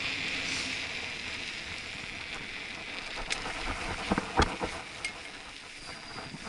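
Mountain bike rolling on an asphalt lane: a steady hiss of tyres and wind that slowly eases off. A few clicks and a short cluster of knocks and rattles from the bike come about four seconds in, the loudest sounds here.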